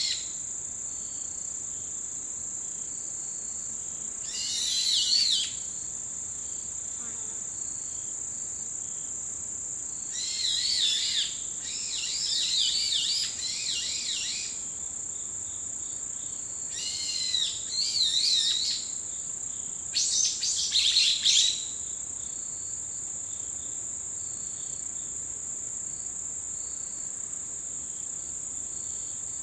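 Autumn insects keep up a steady, high-pitched trill, while a songbird gives several short bursts of quick, twittering song, the last a little past the middle; after that only the insect trill goes on.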